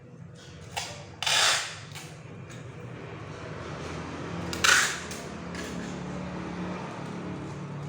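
Two loud, sharp bangs about three seconds apart, with a few fainter knocks between, over a low steady hum: nailing work on a wooden packing crate.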